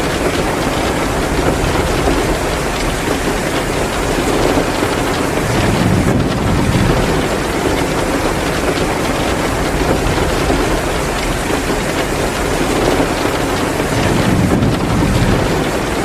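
Heavy downpour of rain mixed with a crackling wood fire in a fireplace: a steady, dense hiss. Low rumbles swell up twice, about six seconds in and again near the end.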